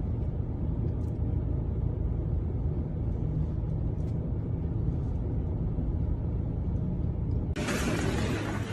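A low, steady rumble. About seven and a half seconds in it cuts abruptly to a louder, hissier noise.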